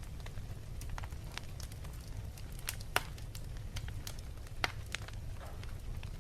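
Wood fire in a fireplace crackling over a low steady rumble, with scattered small pops and two sharper, louder pops about three seconds in and again near five seconds.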